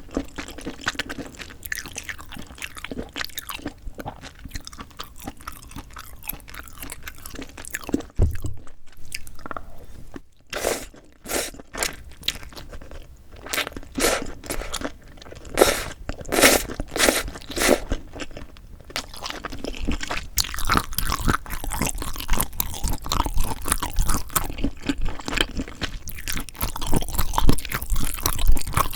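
Close-miked eating sounds: chewing, crunching and wet mouth noises from a meal of spicy cold noodles with whelk. A run of louder, sharper mouth sounds comes in the middle, and the chewing grows denser near the end.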